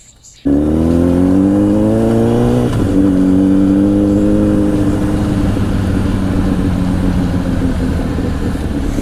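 Honda CBR1000 inline-four through a Two Brothers aftermarket exhaust, cutting in loudly about half a second in and pulling hard with rising pitch, then an upshift near the three-second mark and a steady cruise with the revs easing slightly.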